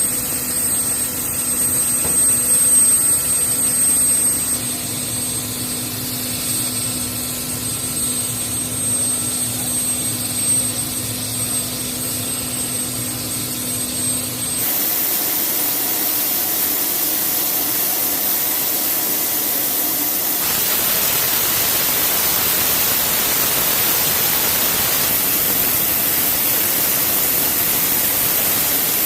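HH-60G Pave Hawk helicopter heard from the cabin in flight: steady turbine whine and rotor noise. About halfway through it cuts suddenly to an even, steady rushing hiss.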